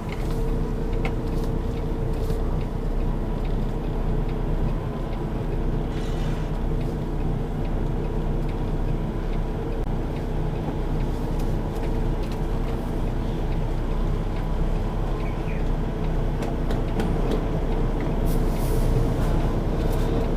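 Semi-truck's diesel engine running steadily at low speed, heard from inside the cab as the tractor-trailer is slowly backed into a dock, with a few faint clicks.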